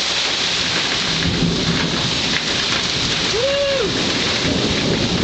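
Heavy rain pouring down steadily, with thunder rumbling from about a second in.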